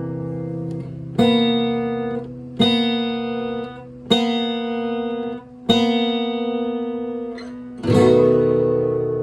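Guitar playing slow strummed chords: five strums, each left to ring out before the next.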